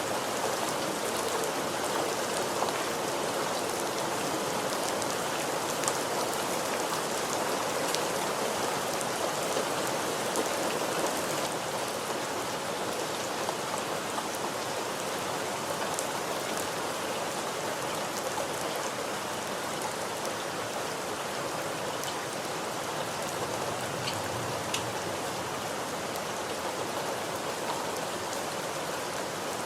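Steady rain falling, a continuous even hiss with scattered sharp drop ticks.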